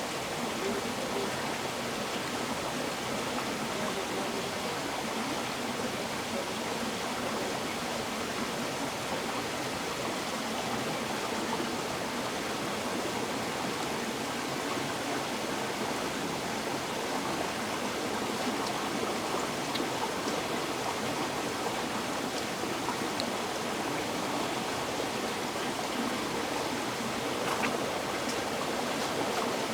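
River water flowing steadily over rocks, an even rushing with faint small splashes and trickles.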